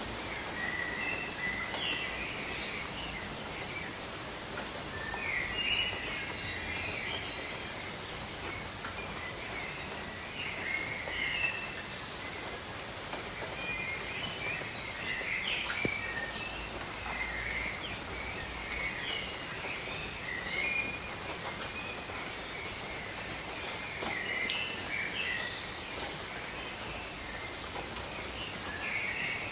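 Steady patter of rain on leaves, with small birds chirping and calling on and off throughout.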